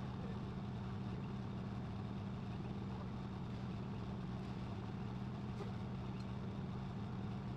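A truck's engine running steadily: a constant low drone that does not change in speed.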